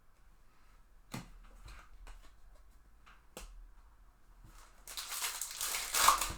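Trading cards and a pack wrapper being handled: a few light clicks, then about a second and a half of loud rustling near the end.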